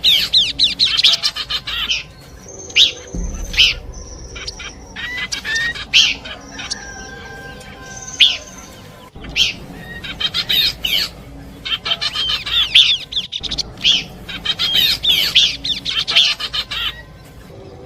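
Pelanduk semak (bush babbler) song used as a bird-trapping lure: bursts of rapid high chattering notes alternate with short, high, flat whistles.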